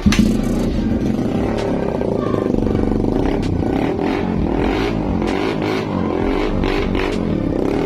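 Suzuki Raider 150's single-cylinder four-stroke engine running loud through an SC Project muffler on a custom-made elbow pipe, the revs rising and falling a little. This is a test of the new exhaust joint for leaks, and none is found.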